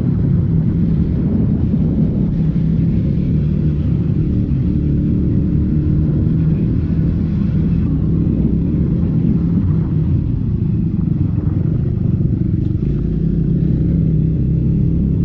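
Triumph Scrambler 400X's single-cylinder engine running through the stock exhaust at a fairly steady speed under way, with a low, even exhaust rumble.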